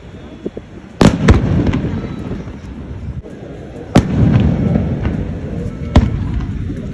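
Aerial fireworks bursting: four sharp bangs, the first two close together about a second in, then one at about four seconds and one at about six. Each bang is followed by a low rolling rumble that fades away.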